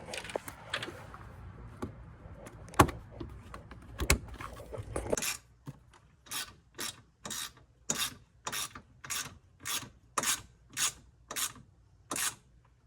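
Hand ratchet driving in a bolt: a steady run of ratcheting strokes, about two a second, starting about five seconds in. Before that come handling noises and two sharp knocks.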